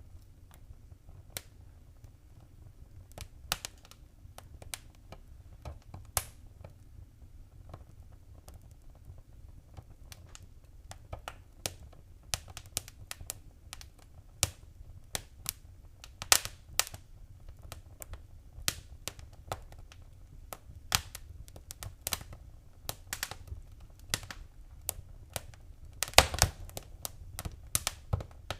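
Wood fire crackling in a fireplace: irregular sharp pops and snaps over a low steady rumble, sparse at first and growing busier, with the loudest cluster of pops near the end.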